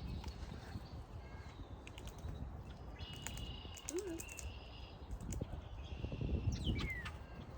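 Wild birds chirping and whistling: short chirps, one held whistle in the middle, and a falling whistle near the end, over a steady low rumble.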